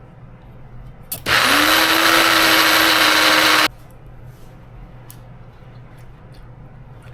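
Electric kitchen blender running in one burst of about two and a half seconds, whirring up to speed about a second in, holding steady, then cutting off suddenly. It is blending roasted red bell pepper into a paste.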